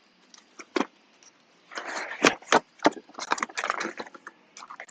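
Metal hand tools clinking and rattling as a wrench is fitted and worked: a run of sharp clicks and short scraping bursts, busier from about two seconds in.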